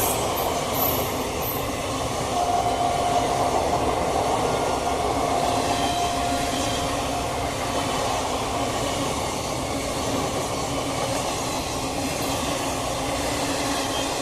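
Express passenger train running past close by, a steady loud rumble and rattle of wheels on rail, with a drawn-out whining tone through the middle of the passage.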